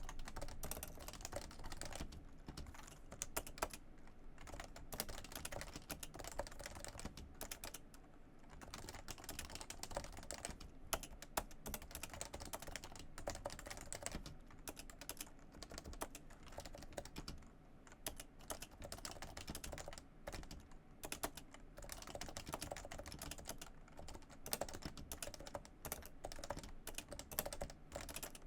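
Typing on a Realforce R2-US3-BK keyboard with Topre electrostatic capacitive switches: a steady stream of keystrokes, with a couple of brief lulls.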